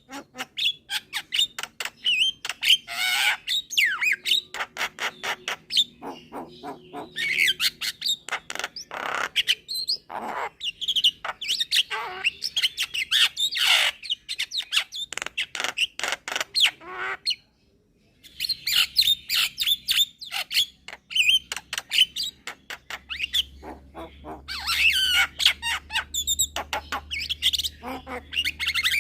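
Javan myna (jalak kebo) singing a fast, continuous run of harsh chatters, clicks and squawky notes, with a brief pause about two-thirds of the way through.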